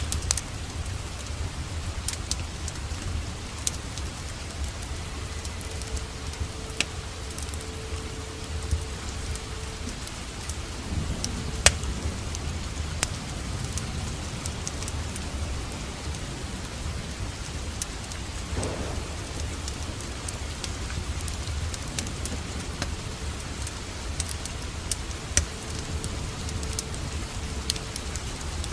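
Steady rain mixed with a crackling wood fire in a fireplace: an even hiss of rain over a low rumble, with scattered sharp crackles and pops.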